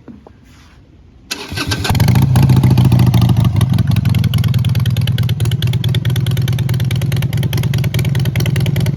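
2013 Harley-Davidson Sportster XL883 Low's air-cooled V-twin started with the electric starter: it cranks briefly about a second in, catches, and then idles steadily with a rapid pulse.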